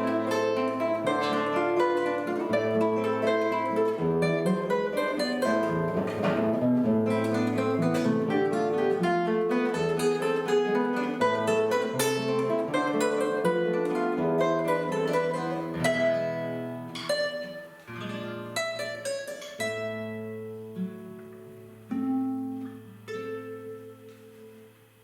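Two guitars playing a piece together, reaching its close. The playing thins out after about sixteen seconds, and the last notes are left to ring and die away.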